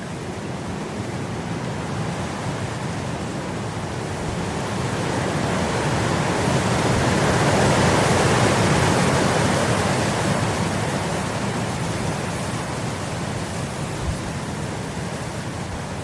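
Wind blowing through grass, rising in a gust to a peak about halfway through and then easing off.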